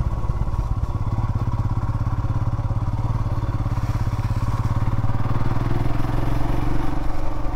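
Royal Enfield Himalayan's single-cylinder engine running at a steady pace while the motorcycle is ridden, getting a little louder in the last couple of seconds.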